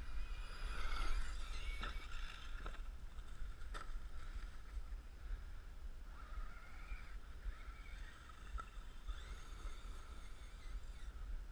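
Brushless electric motor of a Team Associated Rival 1/8-scale monster truck whining as it drives, its pitch rising and falling with the throttle. A few sharp knocks are heard, over a steady low rumble.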